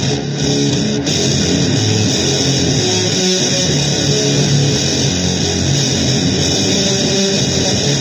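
Heavily distorted electric guitar playing a dense, unbroken, noisy blues improvisation.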